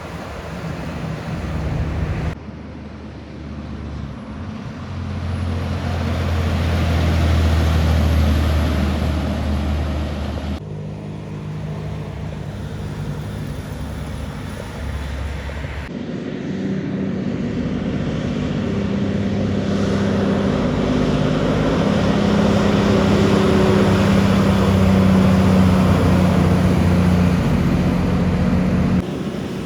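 Heavy trucks' diesel engines running as they pass on the highway, with a steady engine note and tyre and road noise in each pass. The sound changes abruptly several times where separate passes are joined.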